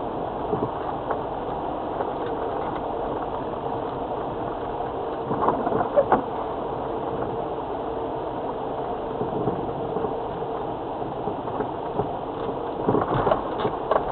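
Land Rover Freelander TD4's four-cylinder turbodiesel running steadily as the vehicle drives along, with a few knocks and clunks from the vehicle about five to six seconds in and again near the end.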